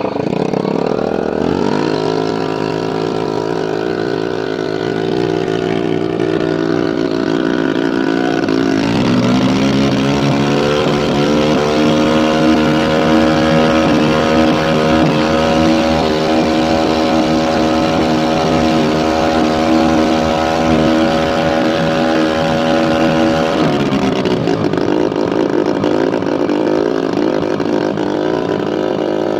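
A freshly tuned boat engine running under way: the pitch steps up about two seconds in, rises again around nine seconds in as the throttle opens further, holds steady at speed, then drops back about five seconds before the end.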